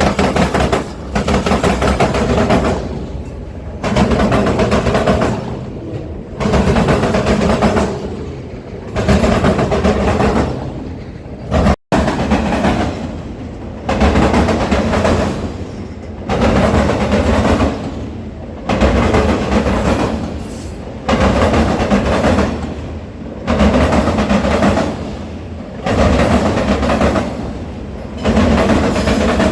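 Train cars rolling past on the rails. The sound swells and fades about every two and a half seconds as the cars go by. There is a momentary break in the sound about twelve seconds in.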